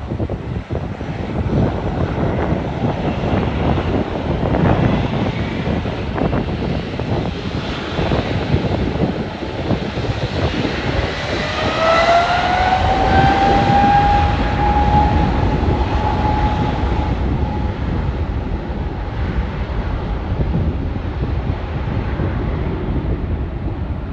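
Jet airliner engines passing: a rushing roar that swells to its loudest about halfway through, with an engine whine that rises in pitch, holds steady for several seconds, then fades.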